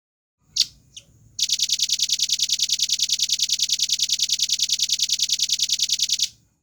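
Velvet-fronted nuthatch singing: two short, sharp high notes, then a rapid, even trill of about ten notes a second that lasts about five seconds and cuts off suddenly.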